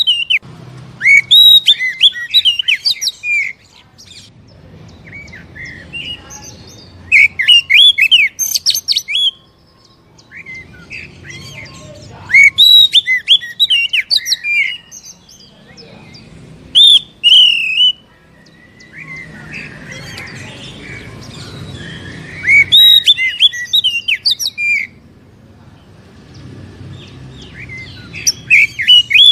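Oriental magpie-robin (kacer) singing in loud bursts of quick, varied whistles, trills and harsh chirps, each burst a second to a few seconds long, with short pauses between them. A faint low hum runs underneath.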